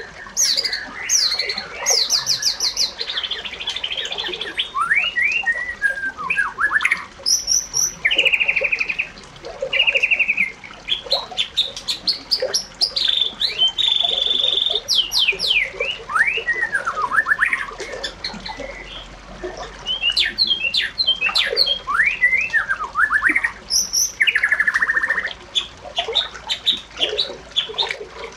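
Birds chirping and calling: a nearly continuous stream of quick whistled notes, rising and falling sweeps and short trills.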